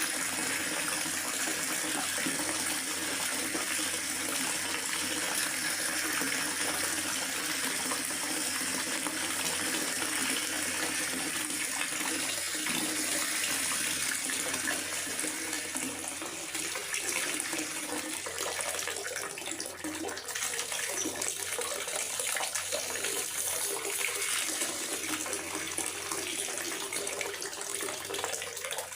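Steady rain falling in a forest, a continuous even hiss of water.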